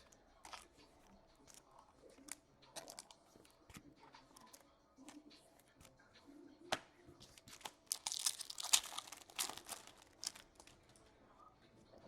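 Faint crinkling and tearing of an Upper Deck SP Authentic card pack wrapper being ripped open, densest about eight seconds in, amid scattered light clicks of cards being handled.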